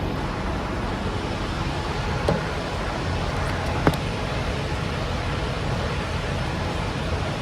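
Steady low vehicle rumble and road noise, with two short sharp knocks, one about two seconds in and one about four seconds in.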